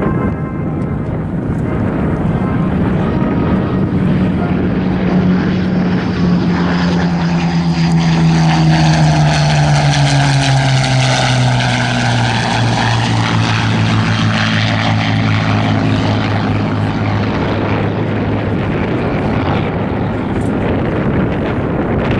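Spitfires' Rolls-Royce Merlin V12 piston engines and propellers passing by in a display. A steady engine drone builds to its loudest about halfway through and drops in pitch as the aircraft go past.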